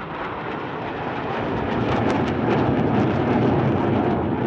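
Jet noise from Blue Angels F/A-18 Super Hornets flying past: a broad rumble that swells over the first couple of seconds, then holds loud and steady.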